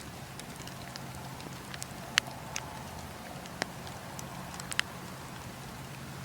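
Campfire burning, with a steady low rustle of flames and scattered sharp crackles and pops from the burning wood. The loudest pop comes about two seconds in, and a quick pair of pops comes near the end.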